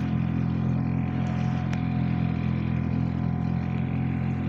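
Motorboat engine running steadily under way: a constant low hum with a faint, steady high whine above it.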